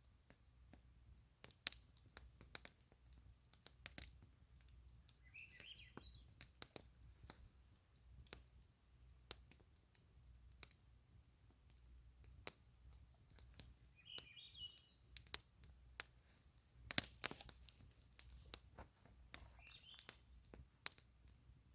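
Wood campfire crackling, with irregular sharp pops, the loudest about two-thirds of the way through. Three faint, short high chirps come through at intervals.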